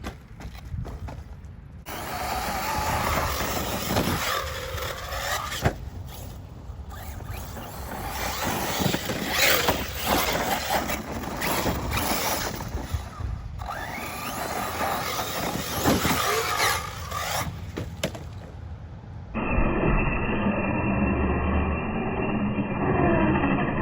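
6S brushless electric RC trucks driving on dirt and gravel. The motors whine, rising and falling in pitch as the trucks accelerate and slow, over the scrape and crunch of tyres in loose ground. Near the end the sound turns duller and muffled.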